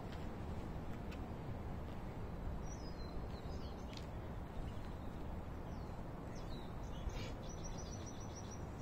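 Small birds chirping over a steady low background rumble of outdoor noise; near the end one bird gives a quick run of repeated short high notes.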